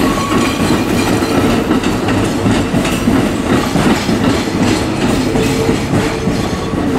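Hanshin electric train running slowly over points and rail joints: wheels clicking and clattering over a steady running hum.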